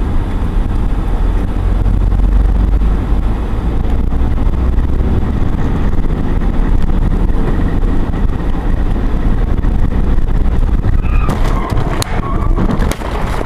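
Steady low rumble of road and engine noise from a car on the move. Near the end come several sharp clicks and knocks.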